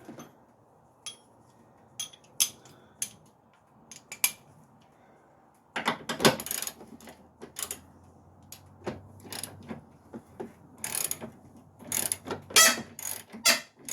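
Hand tools working on the transmission mount bolts: sharp metallic clicks, sparse at first, then a denser run of clicking and clatter from about six seconds in.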